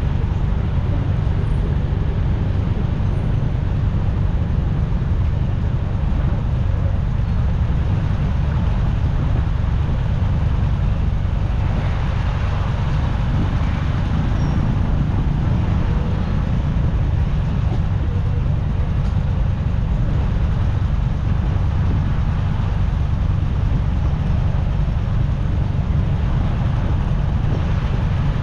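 Steady road noise from riding a motorcycle in city traffic: engine and tyre rumble mixed with wind on the microphone. The surrounding traffic gets briefly louder about halfway through.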